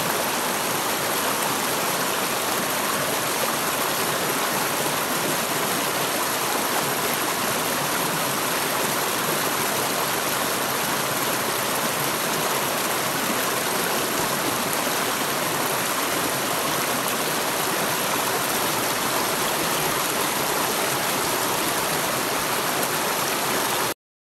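Waterfall on a mountain stream, water rushing in a steady, even roar; it cuts off suddenly just before the end.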